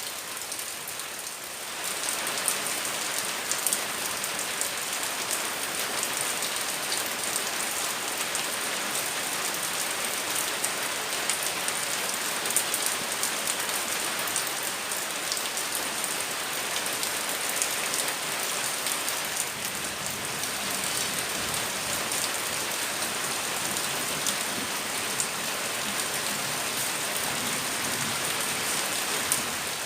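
Heavy rain falling: a steady hiss of rain with many separate drops ticking on surfaces, growing louder about two seconds in.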